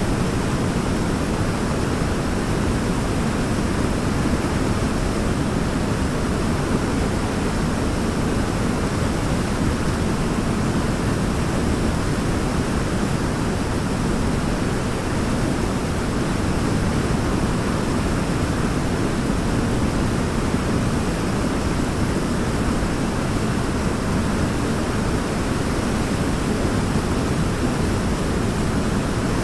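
Waterfall: a steady rush of falling water, deep and even, with no change in level.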